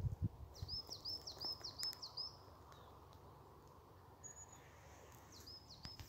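A small songbird singing a quick run of about six identical high chirping notes, then starting the same phrase again near the end. A few low thumps at the very start.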